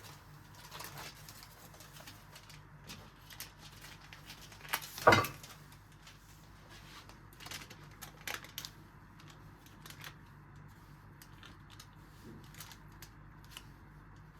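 Light clicks and taps of things being handled in a kitchen, with one louder sharp knock that rings briefly about five seconds in.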